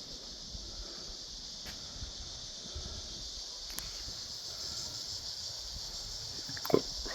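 A steady, high, even chorus of night insects. A single short knock sounds near the end.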